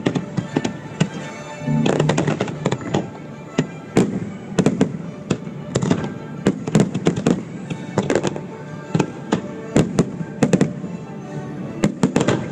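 Fireworks display: aerial shells and fountains of sparks going off in a rapid, uneven run of bangs, about two or three a second. Accompanying music plays underneath.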